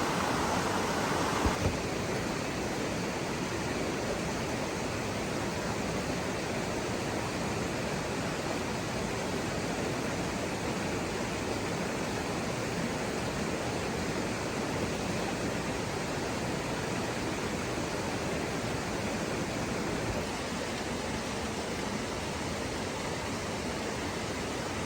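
Steady, even rushing noise with no clear pitch, like running water, with a short knock about a second and a half in.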